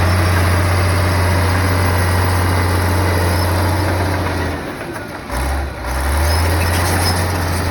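Komatsu bulldozer's diesel engine running with a steady low drone. About two-thirds of the way in it briefly dips and drops in pitch, then comes back to its earlier note.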